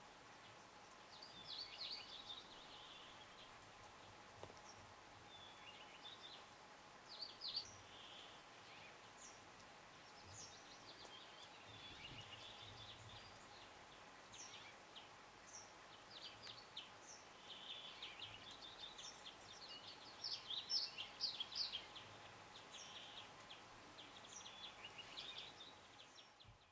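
Faint bird chirps: short high notes coming in scattered bursts, busiest about three-quarters of the way through.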